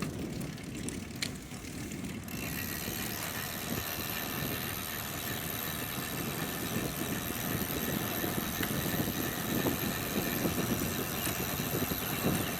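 Steady low rumble like a vehicle engine running, with a high hiss above it that grows stronger about two seconds in and one short click early on.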